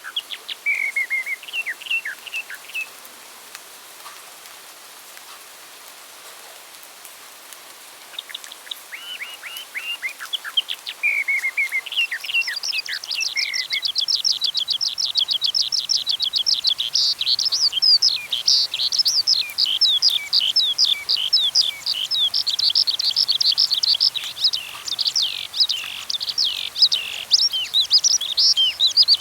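Songbirds singing: short whistled phrases near the start, a few seconds' lull, more phrases, then from about twelve seconds in a dense, continuous run of rapid high-pitched chirping.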